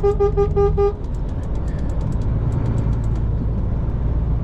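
Truck horn sounding a rapid string of short beeps, about five a second, that stops about a second in. After it, the truck's engine runs steadily.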